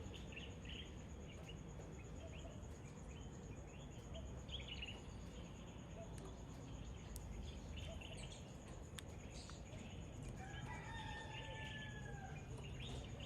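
Wild birds chirping and calling in short scattered notes over a steady high-pitched hum. About ten seconds in, one longer call is held for about two seconds, its pitch falling slightly at the end.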